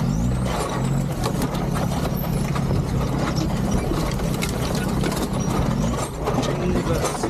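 Land Rover Discovery 2's Td5 diesel running at low speed over a rough, bumpy lane, heard from inside the cabin, with a steady run of rattles and knocks from loose gear and the body jolting.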